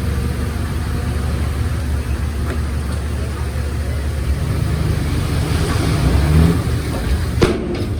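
Heavy diesel engine of earthmoving machinery running steadily, revving up briefly about six seconds in, with a sharp knock near the end.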